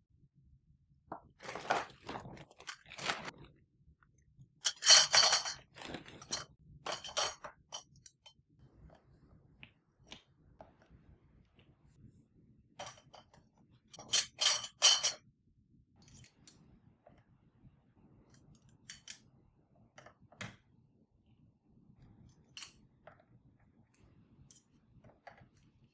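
Household objects being handled: a few short spells of crackling and rustling, with light clicks and clinks scattered between them.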